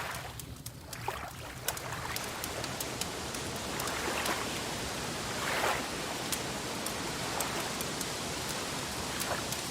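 Wood fire crackling: scattered sharp pops and snaps over a steady hiss.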